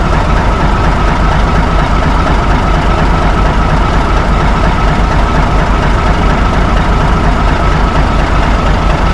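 Large truck engine idling steadily and loudly, an even low rumble with no change in speed.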